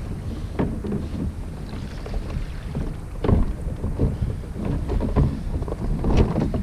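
Choppy lake water slapping and splashing irregularly against a kayak's hull, over a steady low rumble of wind buffeting the microphone.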